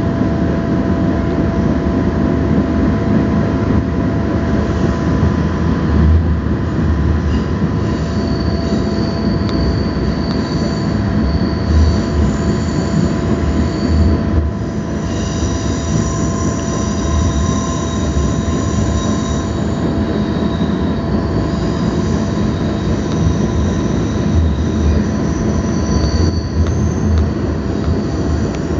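Passenger train running, heard from inside the carriage: a steady rumble with a constant whine and irregular thumps. From about seven seconds in, high-pitched wheel squeal comes and goes.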